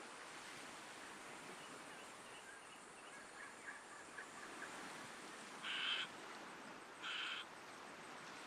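A bird calling: a run of faint short chirps, then two louder, short calls about a second apart, over a steady natural background hiss.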